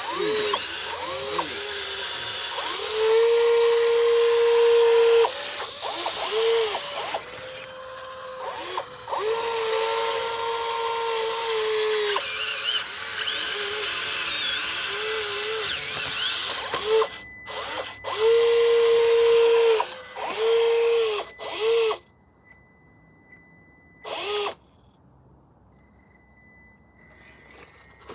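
Small electric motor of a radio-controlled construction model whining in stop-start runs: held steady for a few seconds at a time between short rising and falling blips. It falls quiet about three quarters of the way through, with one brief burst after.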